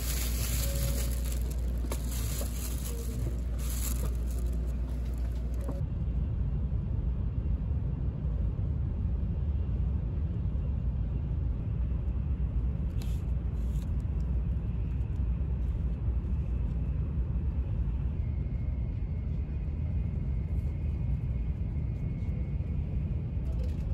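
Steady low rumble of an N700-series Shinkansen heard from inside the passenger cabin, with a hiss over it that drops away about six seconds in. A couple of brief clicks come near the middle.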